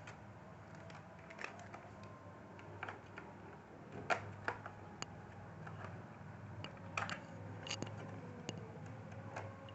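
Small, scattered clicks and taps of a screwdriver and screws working on a laptop's plastic case, over a low steady hum.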